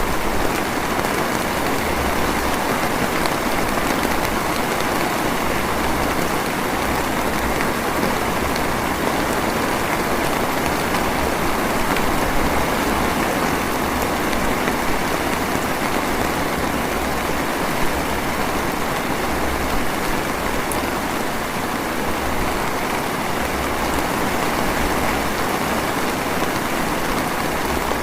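Steady drizzle falling, an even rain hiss with no breaks, with a faint low rumble coming and going underneath.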